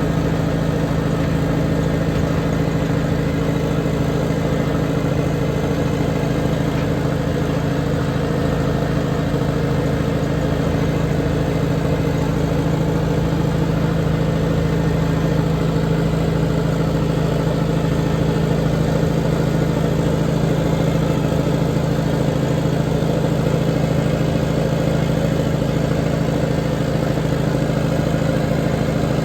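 Engine of a work machine (loader or tractor) running steadily at an even speed, with no change in pitch or level.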